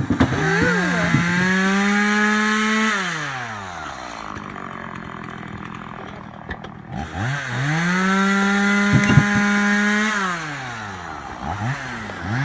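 Two-stroke chainsaw revved to full throttle twice, each time held steady for about two and a half seconds and then released so the engine winds down toward idle.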